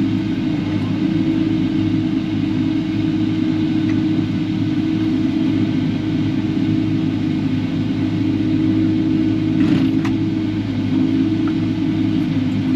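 Kubota KX080-4 excavator's diesel engine running steadily while the machine works, with one short knock about ten seconds in.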